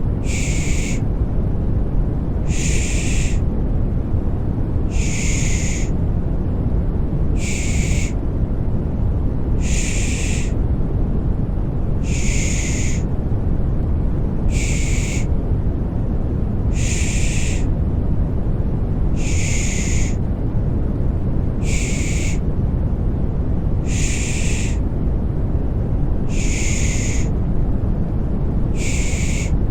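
Rhythmic 'shh' shushing, one short hiss about every two and a half seconds, over a steady deep rumbling noise, made to soothe a baby to sleep.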